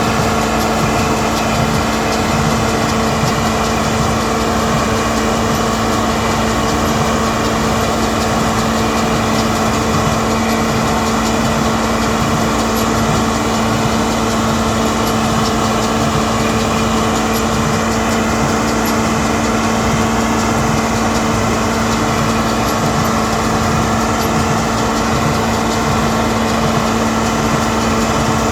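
John Deere 4230 tractor running steadily with a John Deere 336 square baler: a constant, even engine drone carrying a steady hum, with no change in speed.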